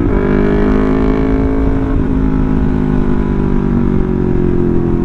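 Yamaha R3's parallel-twin engine running as the motorcycle is ridden, its pitch easing steadily lower as the bike slows.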